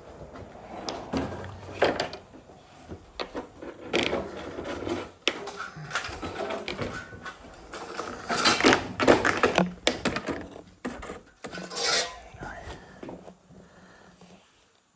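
Irregular knocks, clatter and rubbing of metal and wood being handled, as tools and clamps are moved and set, with the loudest knocks in the middle and a sharp one about twelve seconds in. No saw is running.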